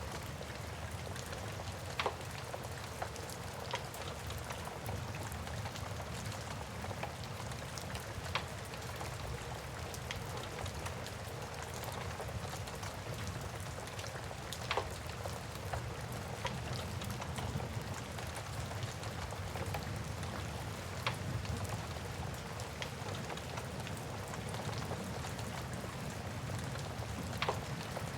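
Steady rain hissing, with a wood fire's sharp crackles popping now and then over it, about half a dozen times.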